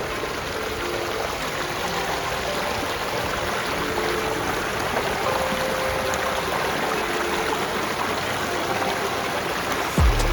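Mountain creek rushing steadily over rocks, with a low thump near the end.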